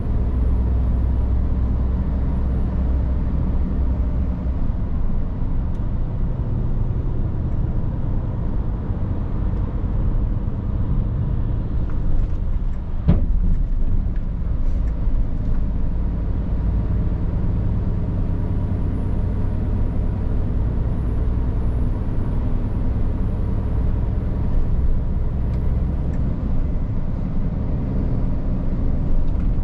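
Scania R450 truck's diesel engine running under way with steady road noise, the engine note shifting gently with speed. One sharp knock comes about 13 seconds in.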